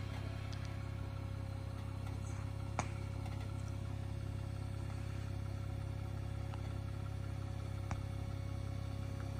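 Jeep Wrangler engine running steadily with a low, even hum, with two light knocks, one about three seconds in and one near eight seconds.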